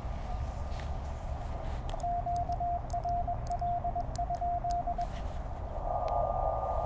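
Morse code sidetone from a Penntek TR-35 transceiver: a single steady tone keyed in dits and dahs for about three seconds, with faint clicks alongside, over the hiss of 20-meter band noise. Near the end the receiver hiss comes back up louder, with a steady higher whistle on top.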